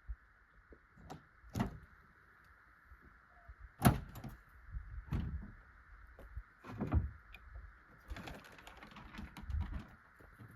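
Irregular knocks, clunks and light rattles of camping gear being handled, the loudest about four seconds in and another near seven seconds, over a faint steady hiss.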